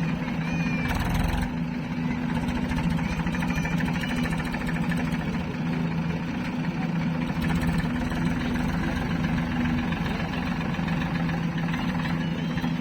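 Diesel engine of a heavy earthmoving or farm machine running steadily, with a short noisy clatter about a second in.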